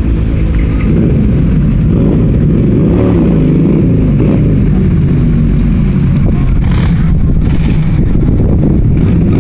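Car engines running on a busy street, with one engine revving up and back down about three seconds in. Two short rushes of noise come later, near seven seconds.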